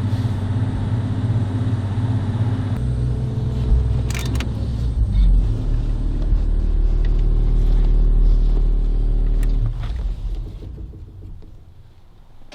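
An engine running steadily. About three seconds in it drops to a deeper note, then it dies away over the last couple of seconds.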